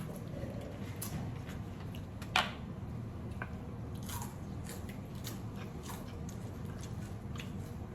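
Biting into and chewing a piece of raw spicy marinated crab: scattered small cracks and wet crunches of shell, with one sharp crack about two and a half seconds in.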